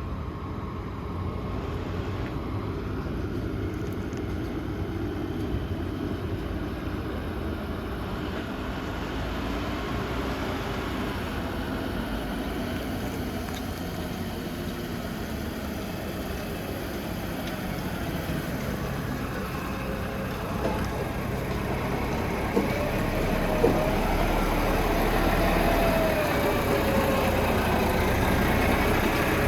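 Concrete mixer truck's diesel engine running steadily, growing louder over the last third as the truck moves off. A couple of sharp knocks come just after two-thirds of the way through, and a faint wavering whine follows.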